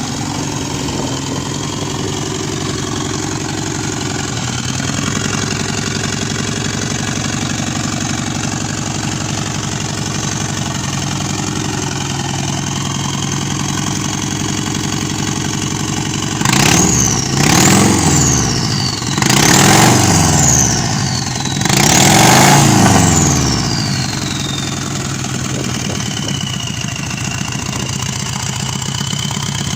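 Subaru EJ255 2.5-litre turbocharged flat-four boxer engine idling steadily, then blipped four times in quick succession about two-thirds of the way in. Each rev carries a high whine that climbs and then falls away before the engine settles back to idle.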